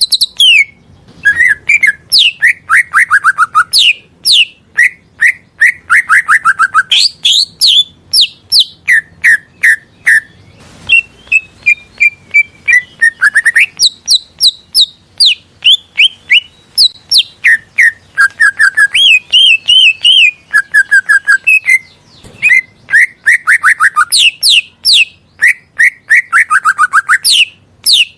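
Green leafbird (cucak ijo) singing a continuous, varied song of loud whistled phrases: quick runs of sharp descending notes, trills and short held whistles, with only brief pauses.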